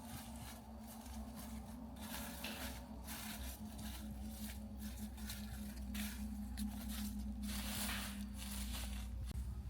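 Irregular rustling and tearing of leaves, dense crackles with a brief louder swell about eight seconds in, over a low steady hum that stops near the end.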